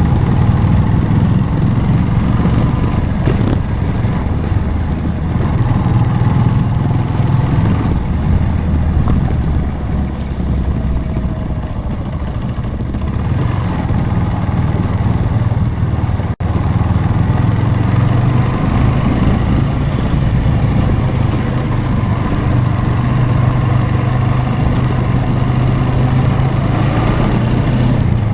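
Motorcycle engine running steadily under way, with road and wind noise. The sound cuts out for an instant a little past halfway.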